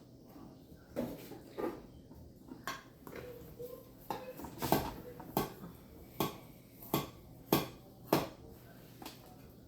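Irregular light clicks and taps of halved cherry tomatoes being set one by one onto a food dehydrator tray, with a few sharper taps in the middle.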